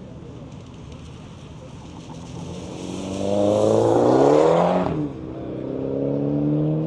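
Car engine accelerating hard, climbing in pitch and getting much louder over a couple of seconds. Its pitch drops sharply just before five seconds in, then it climbs again more slowly.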